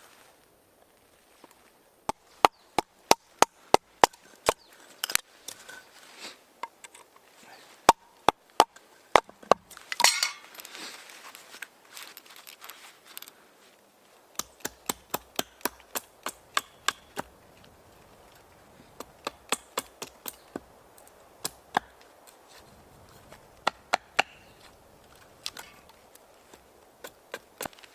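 Repeated chopping strikes on wood, in quick runs of about three to four a second with short pauses between them. A brief scraping sound comes about a third of the way through.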